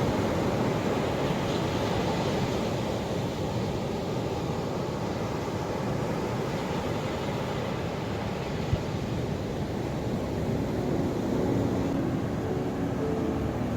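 Ocean surf washing in, a steady rush of breaking waves.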